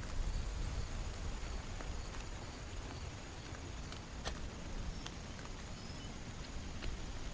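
Steady heavy rain falling, with scattered sharp taps of drops and a low rumble underneath that eases slightly after the first second.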